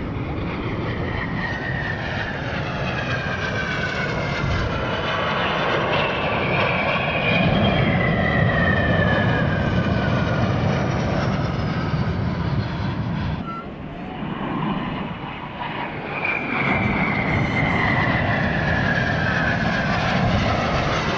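Dassault/Dornier Alpha Jet jet trainers flying past, a loud jet roar with high whines that fall in pitch as each pass goes by. The sound drops away about two-thirds through, then another pass comes in with a fresh falling whine.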